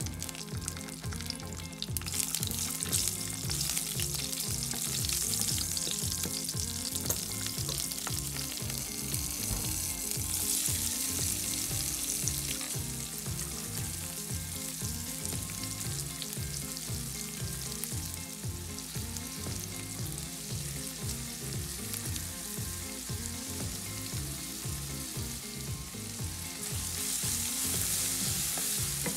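Hot oil sizzling steadily as green chillies and chopped onion, garlic and ginger fry in a pan, picking up about 2 s in and louder again near the end, where a wooden spatula stirs them.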